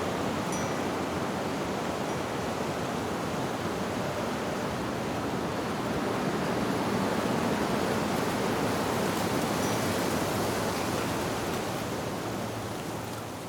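Wind rushing steadily through tree leaves, with a faint wind-chime tone or two. It fades down near the end.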